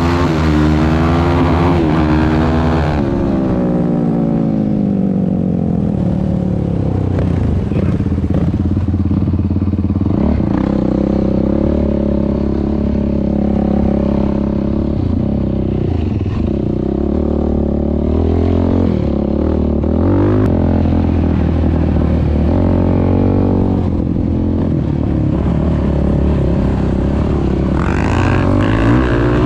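Yamaha YFZ450R quad's single-cylinder four-stroke engine running through a Rossier R5 aftermarket exhaust as it is ridden. It revs up for the first few seconds, drops back, varies with the throttle through the middle, and climbs again near the end.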